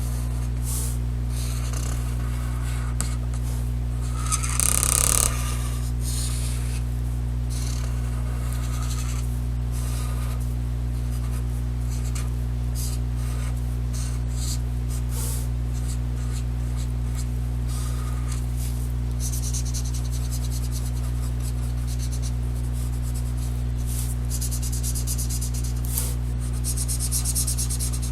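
Black felt-tip marker scratching over paper in short, irregular strokes as it fills in a drawn bird's face, with a louder scratch about five seconds in, over a steady low hum.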